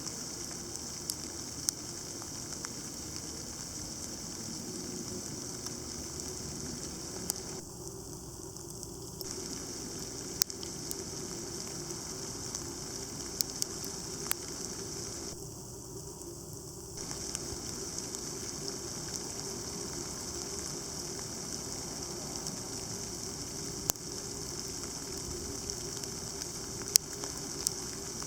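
Sleet with a little snow mixed in falling steadily: an even hiss with scattered sharp ticks of ice pellets striking.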